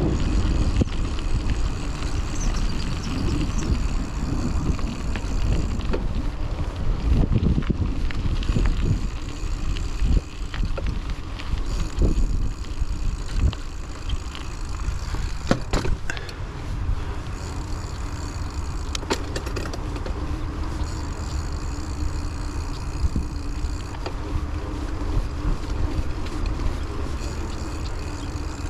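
Raleigh Trailblazer T6 hardtail mountain bike being ridden along a dirt trail: steady rumble of tyres and frame with a few sharp rattles and knocks from the bike over bumps, and wind on the microphone.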